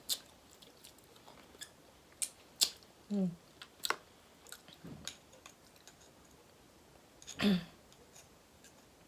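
Close-up eating of crab claw meat: scattered sharp clicks and crunches of shell and utensils, with a short hummed voice sound twice, about three seconds in and near the end.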